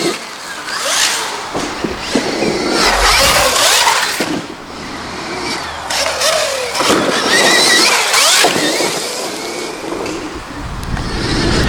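Stark Varg electric motocross bike's motor whining, its pitch rising and falling as the throttle is worked, with surges of wind and tyre noise as it accelerates.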